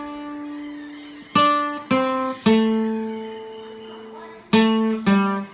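Guitar playing a slow single-note lead line, each note plucked and left to ring. There are about five notes, with one held for a couple of seconds in the middle.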